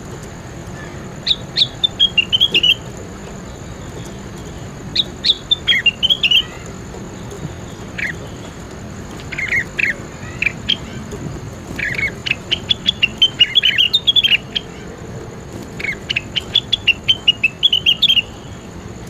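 A songbird singing in short bursts of rapid, high chirping notes that fall in pitch, about five phrases a couple of seconds apart.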